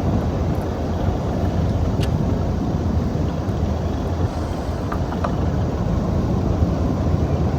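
Steady low rumble on a fishing boat at sea, with a few faint clicks.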